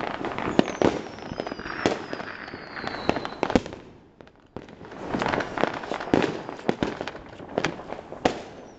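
Fireworks and firecrackers going off in many sharp, irregular bangs and crackles. A high whistle slides down in pitch during the first few seconds, and another starts near the end. The bangs thin out briefly about four seconds in.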